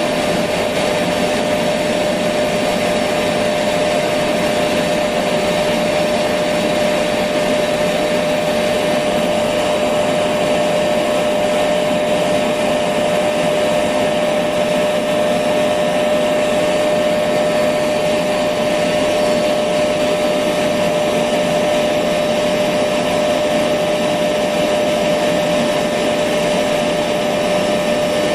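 Electric vacuum cleaner running steadily: a constant whooshing hiss with a steady mid-pitched whine through it.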